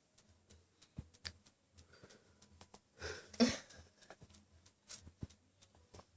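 Faint scattered clicks and taps, with one louder breathy sound, like a sniff or a sharp breath, about three seconds in.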